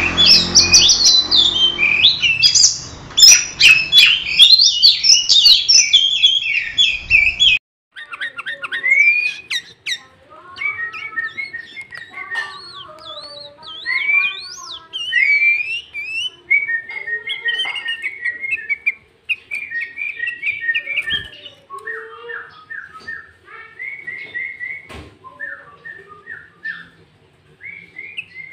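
Sooty-headed bulbul (kutilang) singing: loud, rapid, dense chirping phrases that cut off suddenly after about seven seconds, then a quieter run of varied whistles, glides and warbles, the song filled with imitations of the greater green leafbird (cucak ijo).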